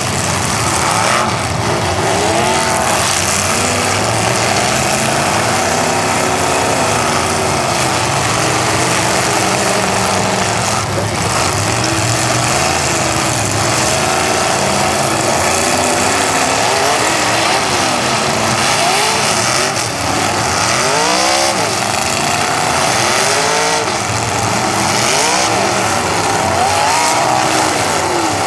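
Several demolition derby cars' engines revving loudly at once, their pitches rising and falling again and again as the cars accelerate and back up, over a constant din of engine and arena noise.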